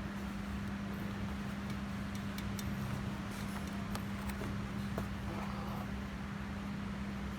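A steady low hum over constant background noise, with a few faint ticks from a needle and thread being handled while the embroidery thread is knotted off.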